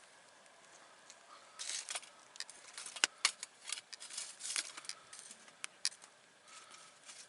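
Wood campfire crackling: irregular sharp pops and snaps over a faint hiss, starting about a second and a half in and thinning out near the end.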